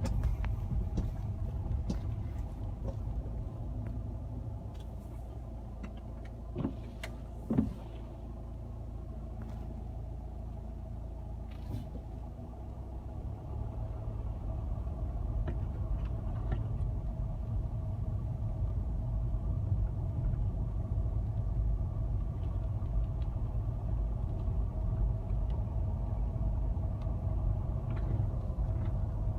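A car driving: steady low engine and road rumble with a faint hum. There are two short thumps about seven seconds in, and the rumble grows louder about halfway through.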